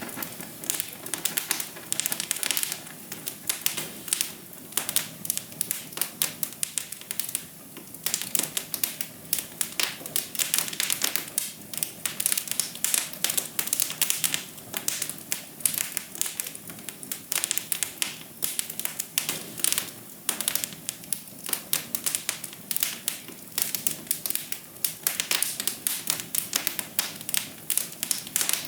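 Wood fire crackling in a fireplace: a dense, irregular run of sharp pops and snaps over a soft hiss of flame.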